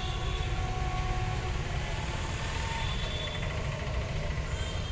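Electric locomotive and its train running, a steady low rumble.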